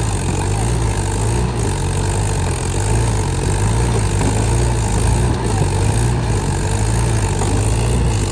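Tractor diesel engine running loud and steady, its low hum wavering slightly in pitch.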